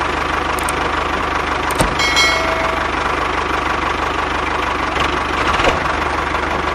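Engine idling steadily with a fast, even knock, like a tractor running. A short high squeak sounds about two seconds in.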